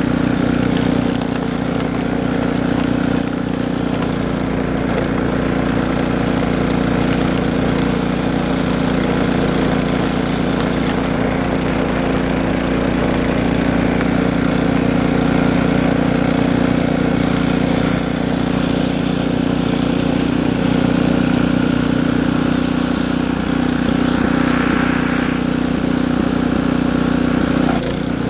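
Snowblower engine running steadily at a constant speed.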